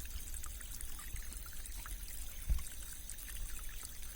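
Small rain-fed stream rippling and trickling steadily, with many small tinkling, bubbling plinks. A low thump comes about two and a half seconds in.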